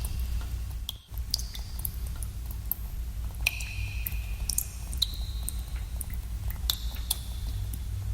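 Water drops falling irregularly into pools in a cave, each drop a sharp plink with a short ringing tone, over a steady low rumble of cave ambience. The sound drops out briefly about a second in.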